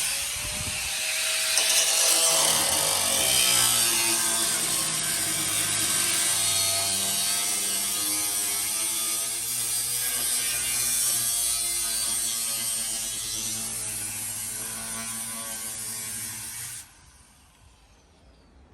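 Electric angle grinder with a cutoff wheel cutting through the car's sheet-metal rear deck: a loud, continuous grinding whose motor pitch sags and wavers as the wheel loads in the metal. It stops suddenly about 17 seconds in.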